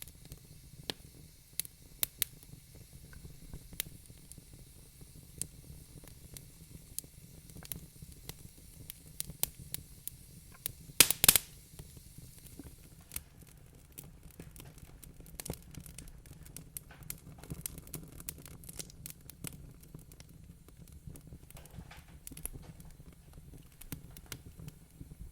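Wood fire in a fireplace crackling, with irregular sharp pops over a low steady rumble of the flames. A burst of several loud pops comes about eleven seconds in.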